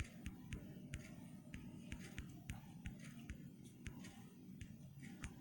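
Faint, irregular light clicks, a few a second, over a low steady hum.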